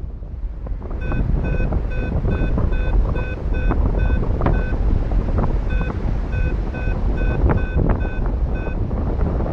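Paragliding variometer beeping: short, even beeps of one pitch at about two and a half a second, the climb tone that signals the wing is going up in lift, pausing briefly about five seconds in and again near the end. Steady wind rumble on the microphone from the airflow in flight underlies it.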